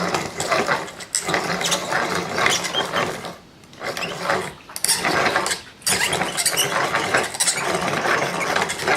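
Square wood stock being turned and fed through a dowel maker's cutter head, its blade shaving the wood round with a dense, ratcheting scrape. The sound breaks off briefly twice, about three and a half and about six seconds in.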